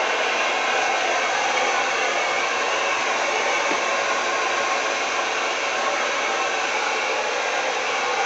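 Blow dryer running steadily on a high setting, a constant airy rush of fan noise, blowing acrylic paint across a canvas in a Dutch pour.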